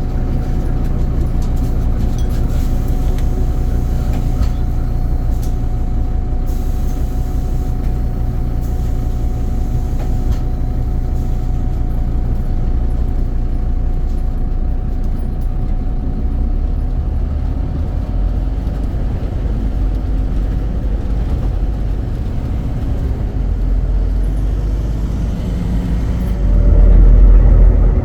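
Scania CN270UB city bus's diesel engine running steadily, a low rumble with a thin steady whine over it. Near the end the rumble swells sharply louder and deeper.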